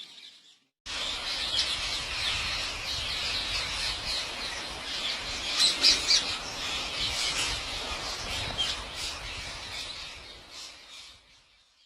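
Parrots squawking and chirping in a dense run of short calls, starting abruptly about a second in, with a few louder squawks around the middle and fading out near the end.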